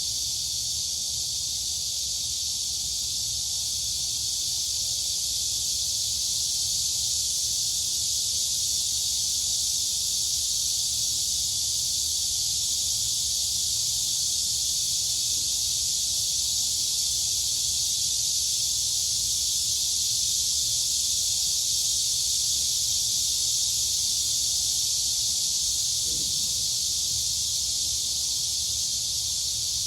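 Dense, continuous chorus of crickets and cicadas: an unbroken high-pitched shrill hiss at a steady level, over a faint low rumble.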